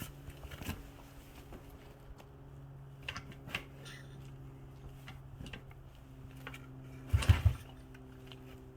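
Dirt bike engine being turned over without firing: a quick run of three low thumps about seven seconds in, among scattered clicks and knocks, over a steady low hum.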